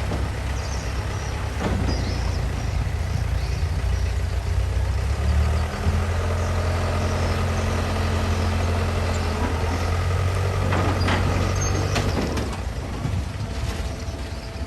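Heavy diesel engine running steadily, rising in pitch about five seconds in and dropping away about twelve seconds in, with a few short knocks and clanks.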